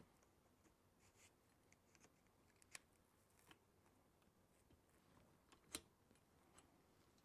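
Near silence broken by a few faint clicks and ticks of small tool parts being handled: cylinder hone stones being flipped and refitted in the hone. The two sharpest clicks come about three seconds in and just before six seconds in.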